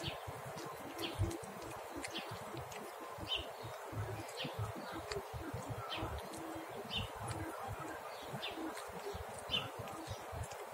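Small birds chirping, short chirps repeating every second or so, over a low uneven rumble.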